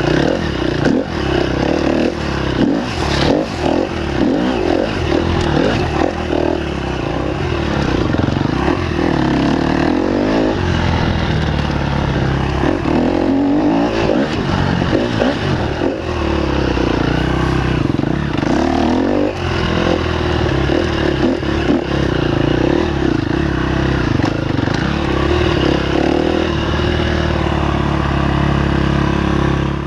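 Enduro motorcycle engine revving up and down continuously as it is ridden hard over rough ground, heard close up from on the bike, with scattered knocks and rattles.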